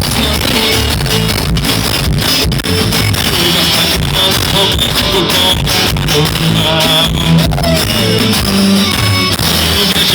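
Live band music playing loudly and steadily, with no sung words.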